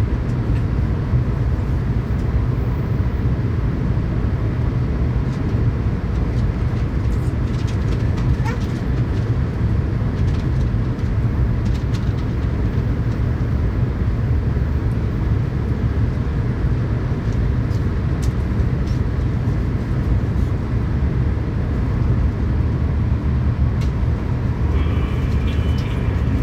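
Tokaido Shinkansen running at speed, heard from inside a passenger car: a steady, even running noise, strongest low down, with faint clicks from the track now and then.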